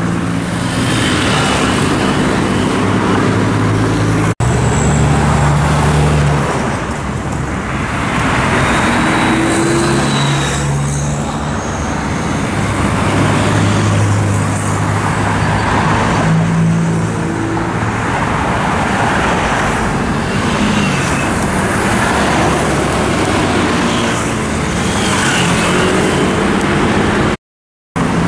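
Heavy road traffic: cars, trucks and motorcycles passing one after another, each swelling and fading over a steady engine drone. The sound cuts out briefly about four seconds in and for about half a second near the end.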